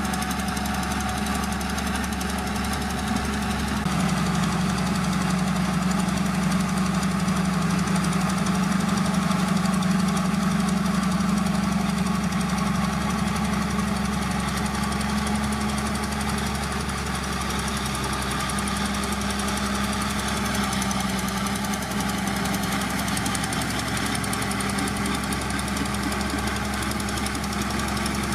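Heavy diesel engine of an earthmoving machine running under load, with a deep steady drone and a continuous rattle. It swells louder for about ten seconds, a few seconds in, then settles back.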